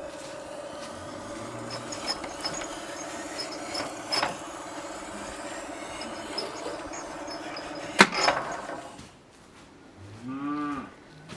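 Homemade electric pipe and profile bender running with a steady motor hum and scattered knocks, and one sharp bang about eight seconds in. It stops about a second later, and a cow moos near the end.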